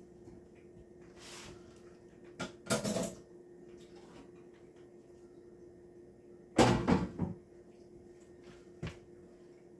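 Kitchen knocks and clatter from things being handled: a short cluster of sharp knocks about two and a half seconds in and a louder clatter about six and a half seconds in, over a steady low hum.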